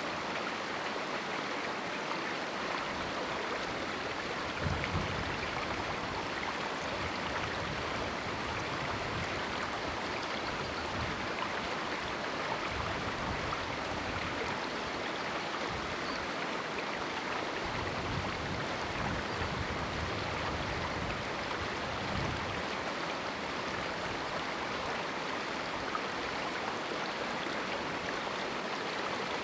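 A small mountain river flowing steadily over rocks, with a soft low gurgle or thump here and there, one a little louder about five seconds in.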